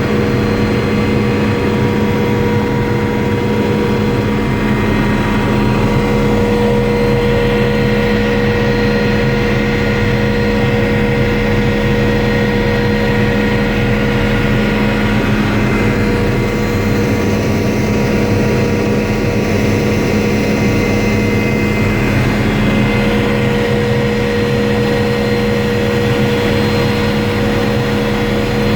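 Helicopter running steadily in flight: a constant loud drone of engine and rotor, with several steady whining tones held over it.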